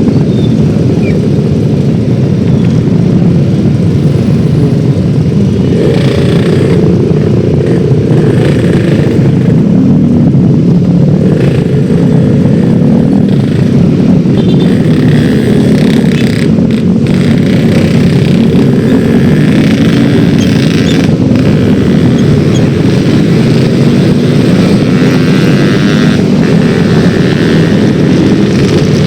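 Yamaha X-Ride 113cc single-cylinder scooter engine running under way, its pitch rising and falling with the throttle.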